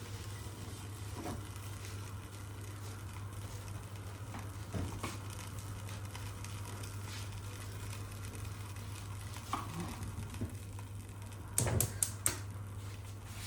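Quiet room with a steady low hum and a few soft clicks and light knocks, then a quick run of three or four sharper clicks about twelve seconds in.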